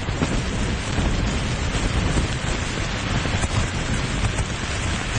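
Gusty storm wind and rain on a tent: a steady, loud rush with heavy low rumble from wind on the microphone.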